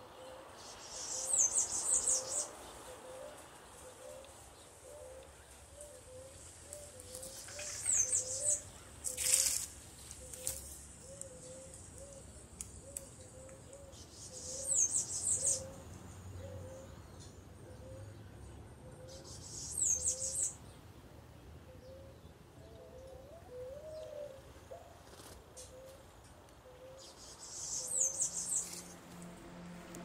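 Birds calling: a high-pitched phrase of quick descending notes, about a second long, comes roughly every six seconds over a steady run of soft low notes, about one or two a second. There is one sharp click about nine seconds in.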